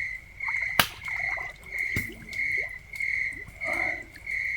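Crickets chirping steadily, about three chirps every two seconds, while water sloshes in a filled outdoor bathtub as a person settles into it, with a sharp knock about a second in and another about two seconds in.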